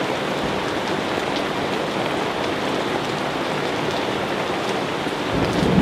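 Steady rain falling in a dense, even hiss, with scattered drop ticks. Near the end a low rumble of thunder begins to build.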